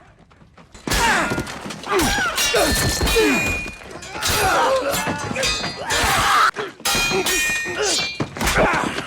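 TV-drama sword-fight sound effects: blades clanging with a metallic ring, heavy thuds and blows, and men grunting and shouting. It starts abruptly about a second in after near quiet.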